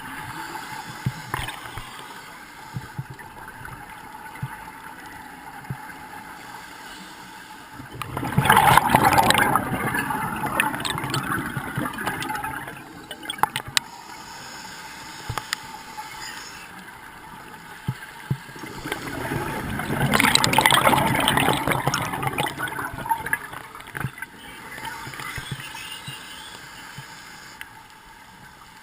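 Scuba diver breathing underwater: twice the exhaled bubbles rush out of the regulator for a few seconds, over a quieter bed of scattered faint clicks.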